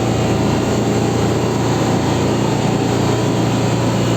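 Ship's engine running steadily in the engine room: a loud, continuous machinery din with a strong low hum.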